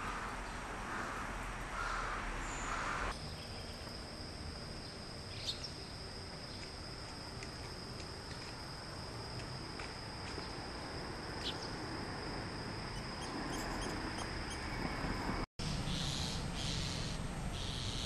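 Outdoor ambience with scattered short bird calls and a steady high-pitched whine. A livelier run of high chirps comes near the end.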